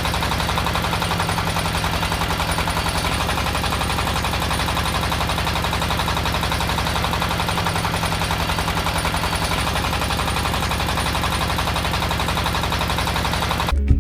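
SUNMOY HG300D water well drilling rig running and drilling: a steady engine hum under a fast, continuous rattling hammer.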